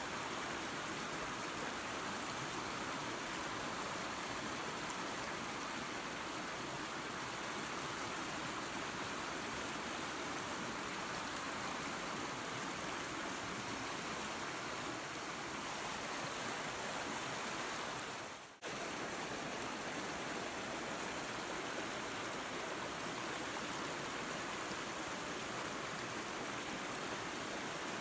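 Waterfall and creek water rushing steadily. About eighteen seconds in it dips briefly in level and snaps straight back.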